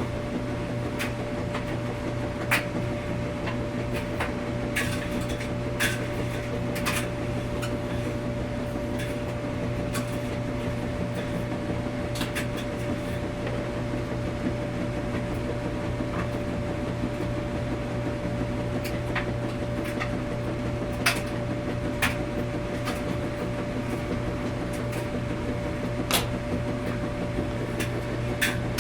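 Washing machine running: a steady hum with a faint steady whine, and sharp clicks at irregular intervals of a few seconds.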